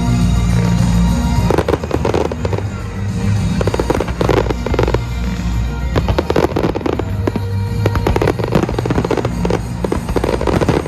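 Fireworks going off in rapid clusters of bangs and crackles, starting about a second and a half in, over music playing.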